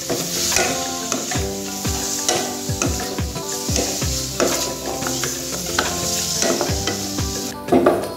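Chicken and vegetable pieces sizzling in a metal frying pan as a wooden spatula stirs them, with repeated scrapes and knocks of the spatula on the pan. The sizzle cuts off shortly before the end, and background music plays underneath.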